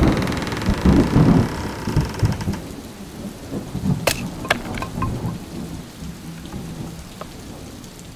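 Thunder rumbling over steady heavy rain, the rumble heaviest in the first couple of seconds, with a few sharp cracks around four seconds in, then fading.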